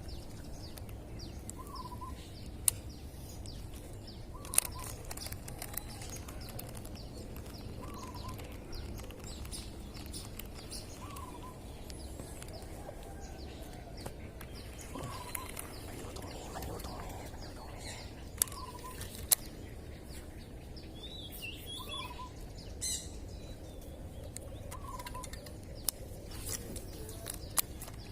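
A bird calls over and over, one short note about every three seconds, with a few higher chirps from other birds. Sharp clicks sound now and then over a steady outdoor background.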